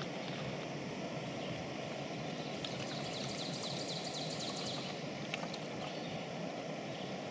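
Backpacking camp stove burning under a pot of water being brought to the boil, a steady rushing hiss that starts and stops abruptly.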